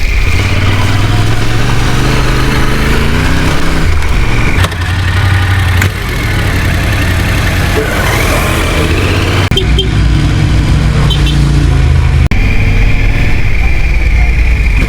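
Adventure motorcycle engine running while riding off-road, its pitch rising and falling with the throttle. The sound jumps abruptly a few times.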